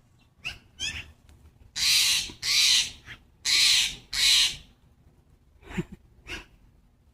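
Steller's jay giving four loud, harsh calls in two pairs starting about two seconds in, with a few shorter, softer calls before and after.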